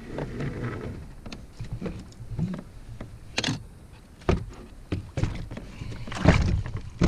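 Irregular knocks and thumps of gear being handled on a kayak, the loudest about six seconds in.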